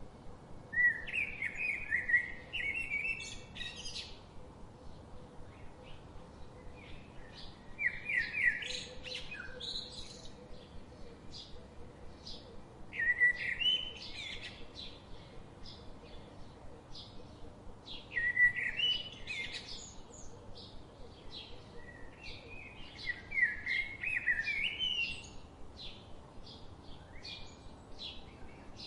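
Songbirds singing: five short bursts of quick, bright chirping phrases about five seconds apart, with fainter chirps in between.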